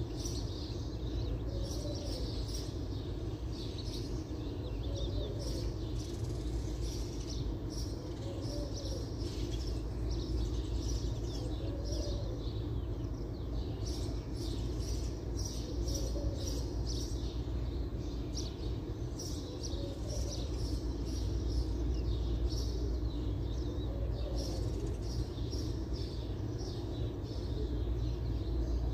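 Small birds chirping busily in quick, short, high notes, over a steady low rumble. A lower arched note also recurs every two seconds or so.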